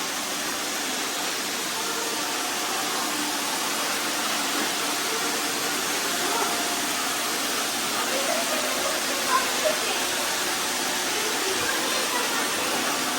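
Several robot vacuums running at once while spot-cleaning scattered rice: a steady hiss of their suction fans and brushes.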